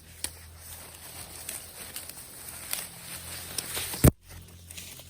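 Scattered rustling and light clicks of something being handled, with one sharp, loud knock about four seconds in.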